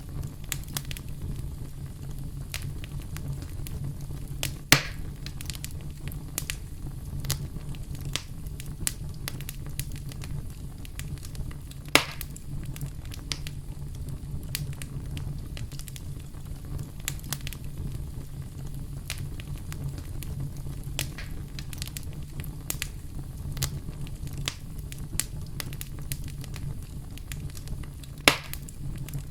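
Campfire crackling: many small irregular crackles over a steady low rumble of burning wood, with three louder sharp pops.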